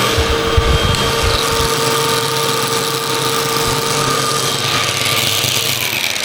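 Upright vacuum cleaner (model UH70605) running steadily with its motor whine, with low bumping in the first second or two as it is pushed across the floor.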